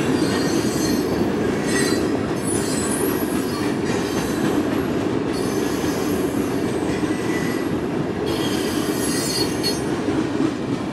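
Loaded coal train's hopper cars rolling past on the rails: a steady heavy rumble of wheels on track, with high-pitched wheel squeal rising in and out, in the first few seconds and again near the end.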